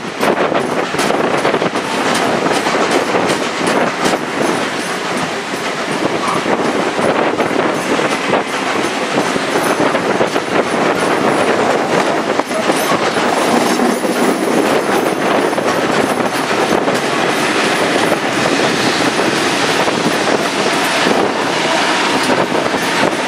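Heritage passenger carriage running at speed, heard from an open window: steady rushing rail noise with wheels clattering over the track. Near the end a double-deck electric suburban train passes alongside.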